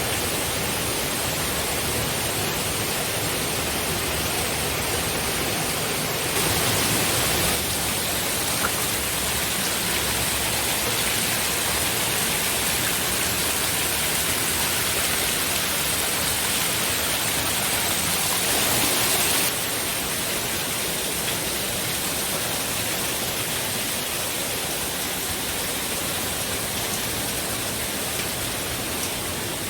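Steady rush of river water from rapids or a waterfall. The level steps up abruptly about six seconds in and drops back abruptly about two-thirds of the way through.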